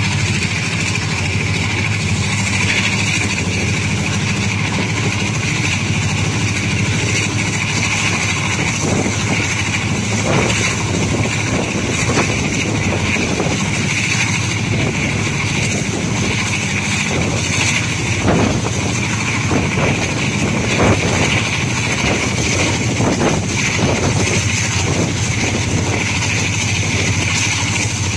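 Passenger train coach running along the track, heard at its open window: a steady rumble and rattle of wheels on rails with rushing air, and several sharp knocks in the middle stretch.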